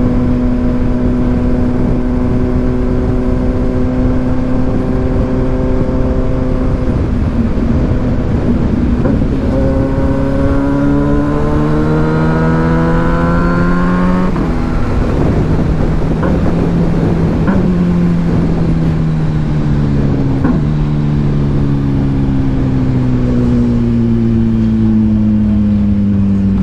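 2022 Kawasaki Ninja 1000SX inline-four through an AR aftermarket exhaust, under way. It holds a steady note, rises in pitch under acceleration for about five seconds, drops sharply at a gearshift, and falls away near the end as the bike slows. Heavy wind rush runs underneath.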